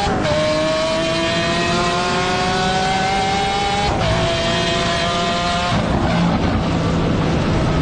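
Car engine under hard acceleration, its pitch climbing steadily and dropping sharply at an upshift about four seconds in. Near six seconds the engine note breaks off into a rougher noise as it eases off.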